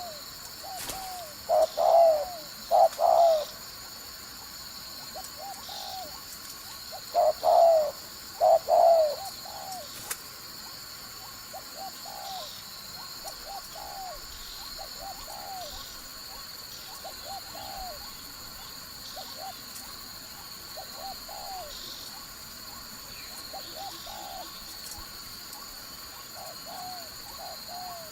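Decoy spotted dove cooing, the call used to lure wild doves to a trap. Loud phrases come about two seconds in and again around seven to nine seconds, with softer coos between and after. A faint steady high whine runs underneath.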